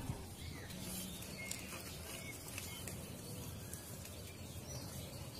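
A few short, faint bird chirps over a steady low background hum, with a single click near the start.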